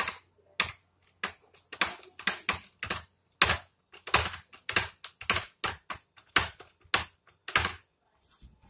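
A quick run of loud, sharp knocks, about three a second, that stops about a second before the end.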